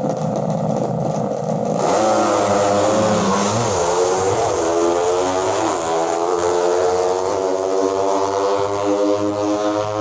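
Music for about the first two seconds, then a sudden cut to 200 cc drag-racing underbone motorcycle engines revving hard, their pitch sweeping up and down as they shift, then climbing steadily in a long run near the end.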